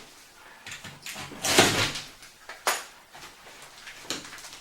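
Wet drywall and insulation being pulled and broken away from a wall by hand: a few separate scraping, crunching bursts, the longest and loudest about a second and a half in, a short sharp one near the three-second mark.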